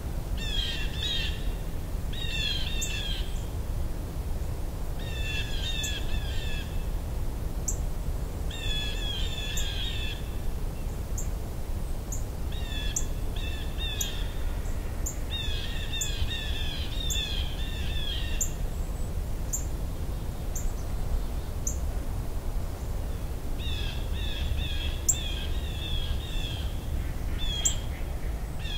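Wintering songbirds calling: chattering phrases a second or two long, repeated every few seconds, with short high thin notes between them, over a steady low rumble.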